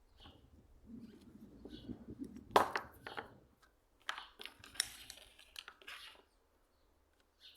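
Hand-plane parts being handled at the bench: a low rumble, one sharp knock about two and a half seconds in, then a few short rubbing strokes.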